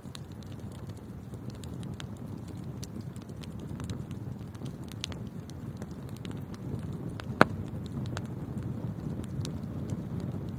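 Wood fire burning in a fireplace: a steady low rumble of flames with scattered small crackles, and one sharp, loud pop about two-thirds of the way through.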